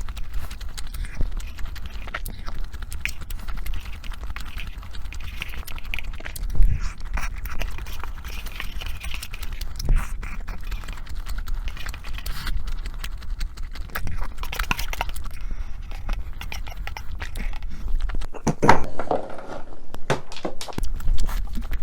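Close-miked eating: chewing with many small wet clicks and smacks, and one louder stretch about three-quarters through.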